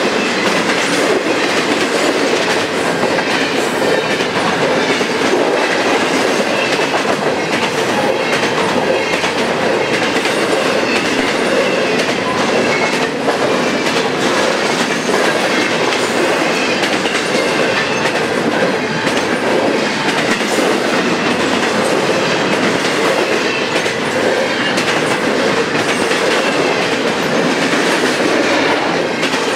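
Double-stack container freight train's well cars rolling past, a steady loud rolling of steel wheels on rail with a continuous run of clicks over the rail joints.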